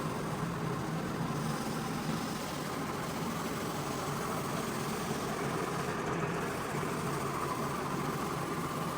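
Steady hum of a motor-driven cleaning machine, running at an even pitch with no breaks.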